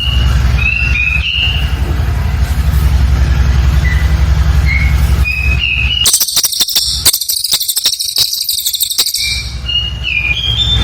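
Cililin bird singing: short high whistled notes, then about six seconds in a loud, rapid, very high buzzing trill of close-packed notes lasting about three seconds, before the whistles resume.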